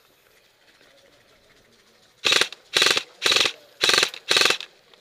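Airsoft gun firing five short full-auto bursts in quick succession, about two a second, each a rapid string of shots, starting a little over two seconds in.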